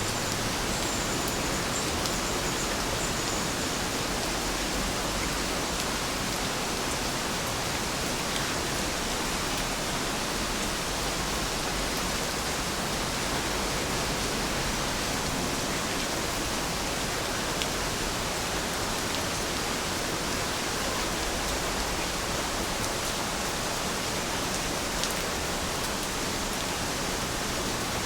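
Steady rain falling: a continuous, even hiss with scattered faint ticks of individual drops.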